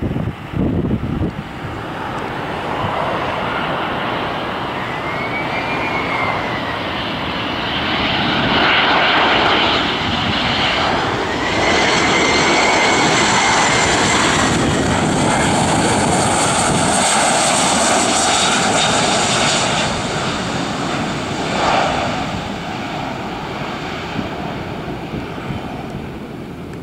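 Boeing 737-400's CFM56 turbofan engines passing on landing, a steady jet rumble with a high whine that rises and falls, louder in the middle and fading near the end. Wind buffets the microphone at the start.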